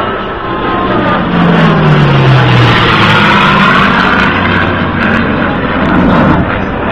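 An F-15 Eagle and a P-51 Mustang flying past in formation: loud aircraft engine noise. A low tone drops in pitch as they pass about two seconds in, and the sound eases near the end.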